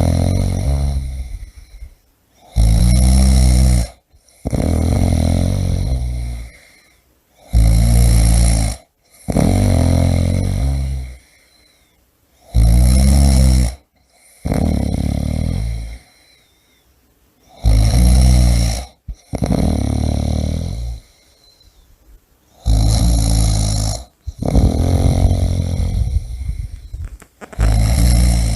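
A person snoring loudly and rhythmically. Each breath brings a pair of rattling snores about a second and a half long, and the pairs repeat roughly every five seconds.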